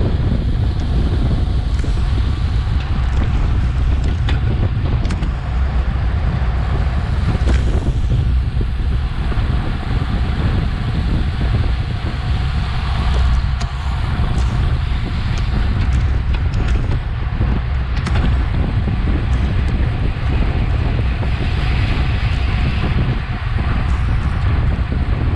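Wind buffeting an action camera's microphone on a bicycle ridden at race speed: a steady, heavy low rumble with a few faint clicks.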